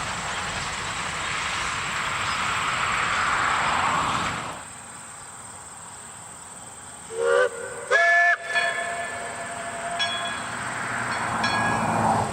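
Narrow-gauge train running with a steady rumble that drops off suddenly, then a train horn sounds two short blasts about a second apart, the second with several tones at once. The running noise and a low engine hum come back near the end.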